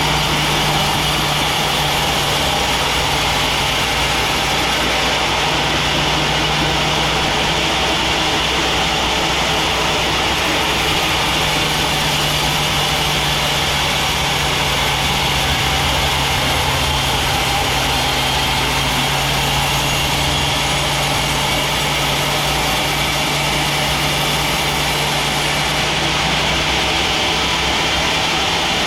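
Sawmill machinery running steadily: a constant low hum with a higher whine above it that holds an even pitch and level throughout.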